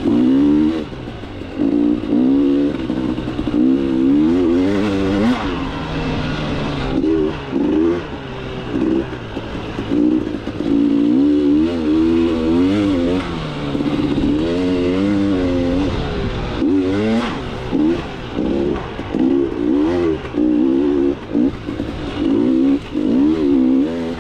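KTM 300 two-stroke dirt bike engine revving up and down over and over as it is ridden, the throttle opened and closed every second or two.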